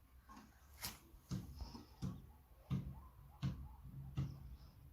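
Soft knocks and taps from handling, five of them a little under a second apart, as a tape is put around a guinea pig's chest to measure it.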